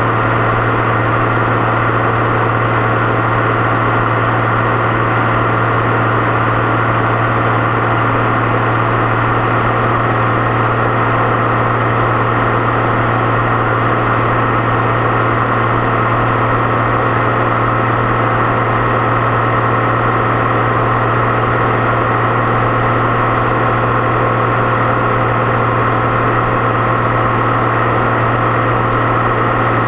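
Deutz-Fahr 6.61 tractor's turbocharged diesel engine running steadily under way, a constant drone with no change in pitch.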